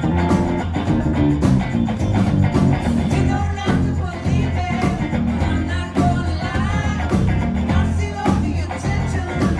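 Live pop-rock band playing: bass, guitar and drums, with a lead vocal singing over them from about the middle on.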